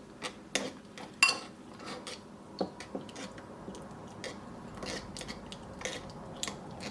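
A utensil stirring a thick miso, soy sauce and mirin marinade in a bowl, knocking and clinking against the bowl at irregular intervals as the miso is worked into the liquid.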